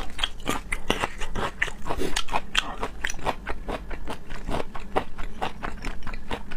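Close-miked chewing and biting of raw seafood, with a quick run of wet mouth clicks and smacks several times a second.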